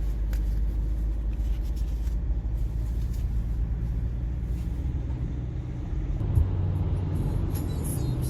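Car moving, a steady low engine and road rumble.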